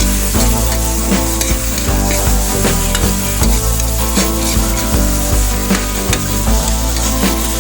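Golden-brown sautéed garlic and onion frying in hot oil in a pan, sizzling steadily while a spatula stirs them, with frequent clicks and scrapes against the pan.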